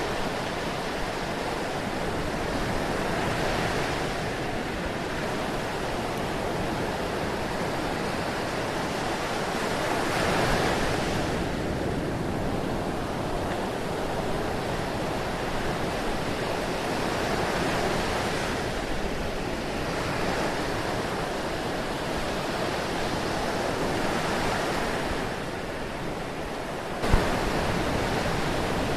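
Ocean surf: a steady wash of waves, swelling and falling back every six to eight seconds. Near the end a sharp click, where the sound changes abruptly.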